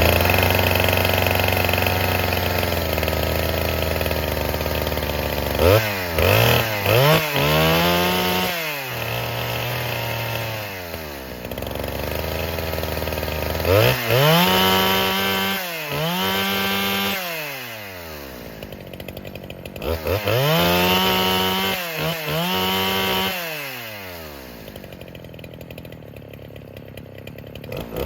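NeoTec NH895 chainsaw (a Husqvarna 395XP clone) on its first start-up, its two-stroke engine idling and then blipped to high revs and back in three rounds of quick bursts. It settles back to a quieter idle near the end.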